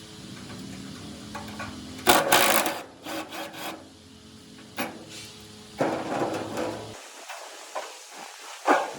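Irregular bursts of scraping and rubbing with a few short sharp knocks, typical of hand work on parts of an old sawing machine during restoration.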